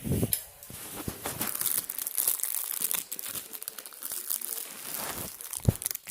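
Close crinkling and crackling made of many small quick clicks, with one louder low knock near the end.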